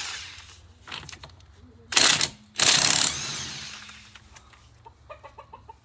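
A power tool runs in three short bursts with a whine, loosening a wheel's lug nuts. Quick ratcheting clicks follow near the end.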